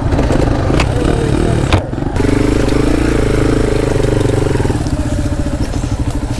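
Dirt bike engine running under throttle while riding a trail, with two sharp knocks in the first two seconds and a brief dip about two seconds in. The engine then holds a steadier, higher note for a couple of seconds before easing back.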